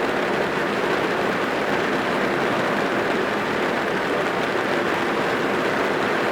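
Steady rain drumming on a car's roof and windows, heard from inside the cabin as an even, dense patter.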